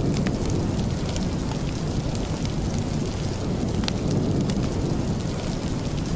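Steady rain with a low rumbling wash, mixed with sparse sharp crackles from a wood fire in a fireplace.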